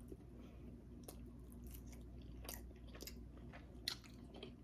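Quiet close-up chewing of a mouthful of cooked salmon, with a few soft, wet mouth clicks scattered through it.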